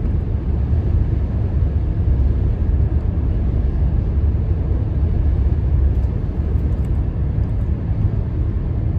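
Road and engine noise inside a moving truck's cab: a steady low rumble.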